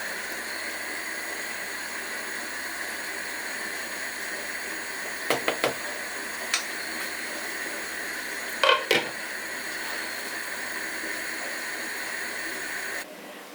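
A steady hiss in the kitchen with a few light clinks of dishes: three quick clinks about five seconds in, one more a second later, and a short cluster near nine seconds. The hiss cuts off suddenly near the end.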